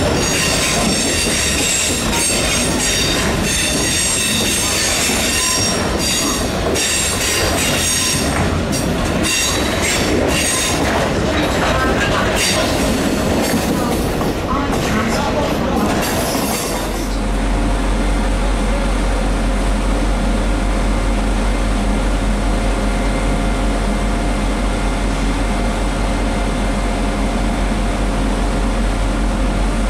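Freight wagons rolling past, with high wheel squeal against the rails and a clickety-clack of wheels over rail joints. About 17 seconds in, this cuts abruptly to a steady low engine hum with several fixed tones.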